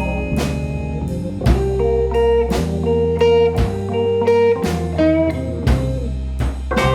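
Blues band playing an instrumental passage between sung lines: guitar lead notes over a steady drum beat and bass.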